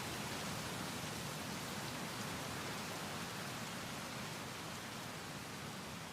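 A steady, even rushing noise with no distinct events, slowly fading toward the end.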